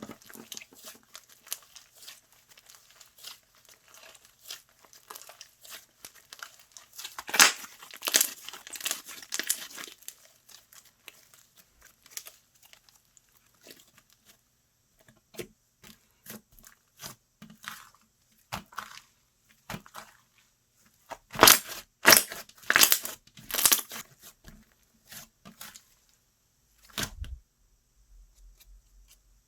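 Hands stretching, pressing and tearing slime, giving crackling and popping sounds. It is louder in bursts about a quarter of the way in and again about three quarters through.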